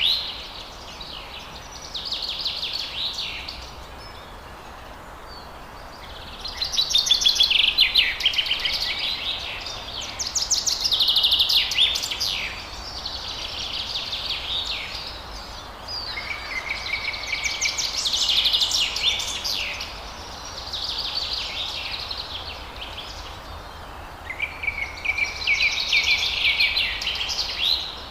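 Forest songbirds singing: high, rapid trilled phrases a couple of seconds long, repeating every few seconds over a steady background hiss.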